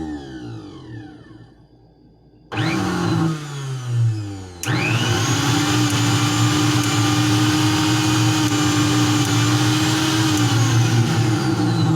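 Hawkins mixer blender's electric motor being switched on to test it after a repair of its burnt input wire. It winds down to a stop, gives a short burst that winds down again, then from about four and a half seconds in runs steadily at full speed, slowing briefly near the end.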